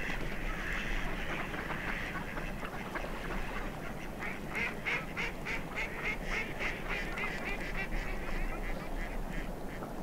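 A bird calling in a quick run of short repeated notes, about three or four a second, starting around four seconds in and spacing out near the end, over a steady background of outdoor ambience.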